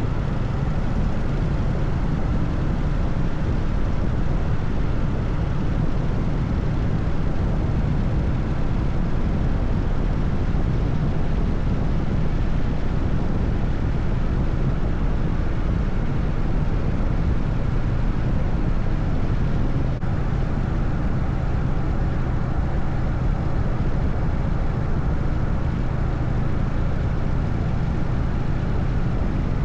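Harley-Davidson FXSTS Springer Softail's air-cooled Evolution V-twin engine running steadily at highway cruising speed, with wind and road noise.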